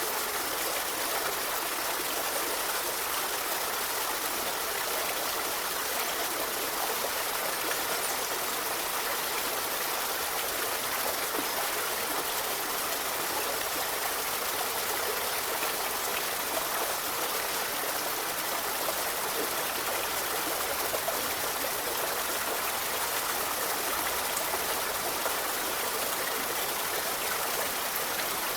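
Steady rushing of a forest river or stream: water running continuously over rocks, an even hiss with no single splashes standing out.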